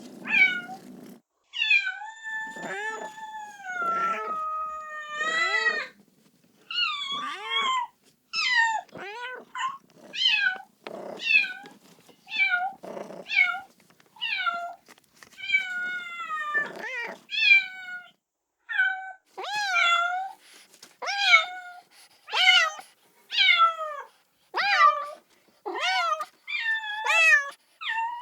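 A kitten meowing over and over, calling for its mother: short, high cries about one a second, many rising then falling in pitch, with brief pauses between runs.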